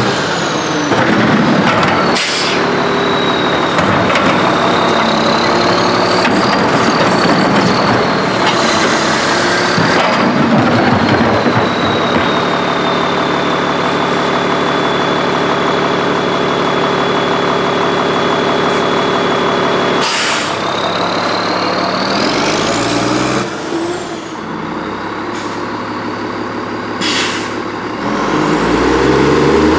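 Freightliner Condor garbage truck with an Amrep MSL side loader working a stop: the engine is held up in revs to drive the hydraulics, with a high whine that glides, then holds steady for much of the time. Air brakes hiss about two seconds in, around twenty seconds in and again near the end, and the engine revs up in the last seconds.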